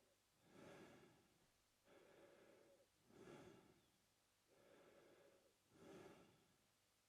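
A man breathing slowly and evenly through his mouth, quietly, about three full in-and-out cycles: each cycle pairs a louder, airier breath with a softer one.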